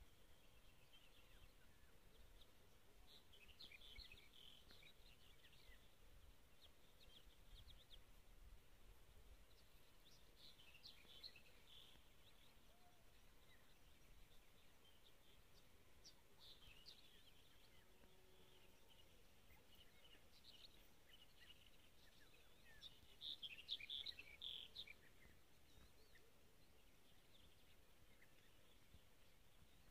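Faint wild birdsong: scattered short chirping phrases coming and going, the loudest burst about three quarters of the way through.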